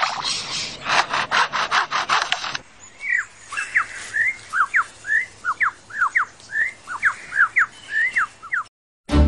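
A rapid, rasping series of strokes, about five a second, for the first two and a half seconds. Then a bird sings a run of quick whistled notes, each sweeping sharply up or down, that stops just before the end.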